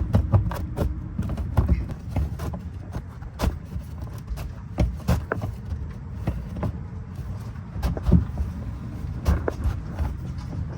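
Scattered clicks and knocks of parts being handled and pressed into place by hand while a sealed component is squeezed into position, over a steady low rumble.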